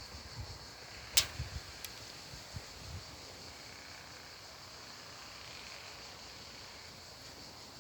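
Insects chirring steadily in a high, even band. There is a sharp click about a second in and a few soft low knocks during the first three seconds.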